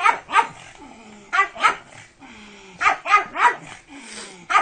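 Dog barking in short runs of two or three barks, a second or so apart.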